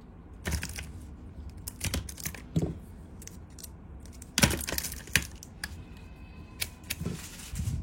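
Zippo lighter handled in the hands: scattered small metallic clicks and taps of the case and lid, with a sharper click about four and a half seconds in and another about a second later.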